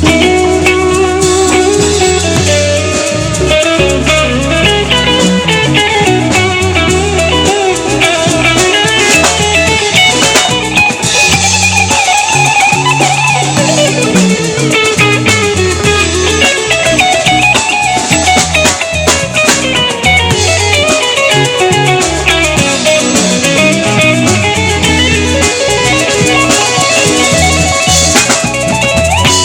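Live band playing an instrumental section with no vocals: a guitar carries the lead, with bent notes, over bass and drums.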